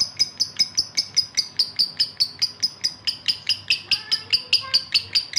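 Male lovebird in breeding condition calling to a female: a fast, steady run of sharp, high chirps, about five a second.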